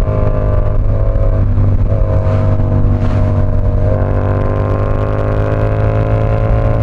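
Yamaha R7's parallel-twin engine running under way at a steady cruise, its pitch dipping slightly a few times and then climbing slowly over the last few seconds as the bike accelerates gently. A constant low rumble of wind sits underneath.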